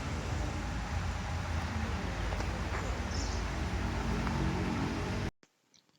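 Steady outdoor background noise with a low rumble, cutting off abruptly a little after five seconds in.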